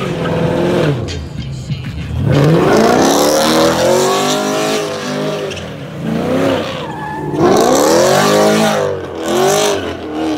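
2016 Camaro SS's 6.2-litre V8 revving hard, its pitch climbing and dropping again and again as the car is thrown into donuts. Tires squeal and skid against the pavement underneath.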